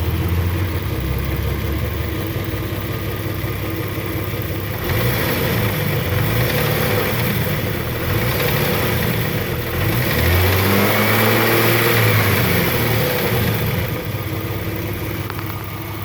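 Jeep Grand Cherokee 4.0 L inline-six running warm with a tick, the noise the owner is showing. It idles, picks up in speed about five seconds in, is revved up and back down past the middle, and drops back toward idle near the end.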